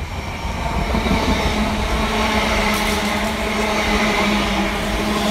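A train running past close by: a loud, steady rush of wheels on rails and air, with a low steady hum underneath. The noise swells about a second in and holds.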